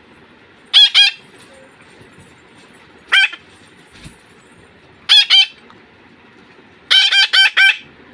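Pet parrot giving loud, shrill squawks in short groups: two, then one, then two, then a run of four near the end.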